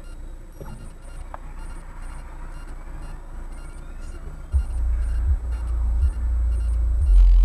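Low road and engine rumble of a moving car picked up by a dashcam microphone, turning much louder about four and a half seconds in and again near the end.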